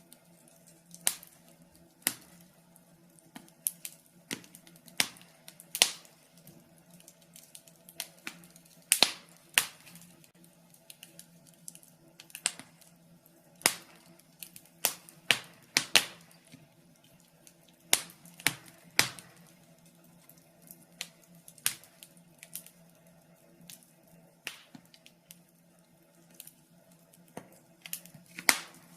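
Wood fire in a fireplace crackling, with sharp irregular pops and snaps about one or two a second, some much louder than others, over a faint steady low hum.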